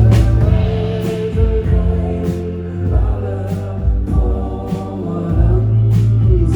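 Live band music with sung vocals over bass, drums and cymbals.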